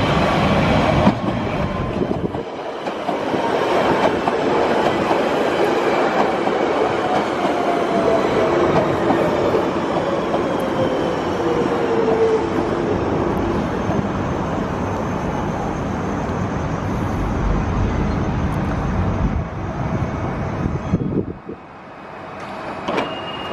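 London Underground 1992 Stock tube train running on the Central Line, with wheel and rail rumble and clatter, and a motor whine that falls steadily in pitch over the first dozen seconds. The sound drops off abruptly near the end.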